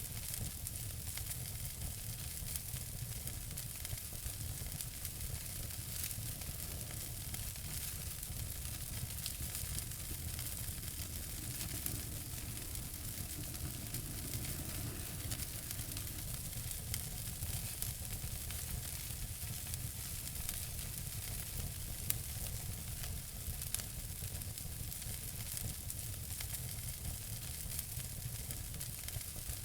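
Wood fire burning in a fireplace: a steady low rumble and hiss with frequent small crackles and pops, one slightly louder pop about two-thirds of the way through.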